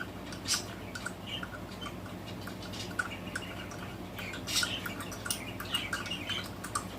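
Light metallic clicks and clinks of hand tools working the engine's cylinder head bolts as they are snugged down, irregular and scattered, with a few sharper ones about half a second in and again between four and six seconds in.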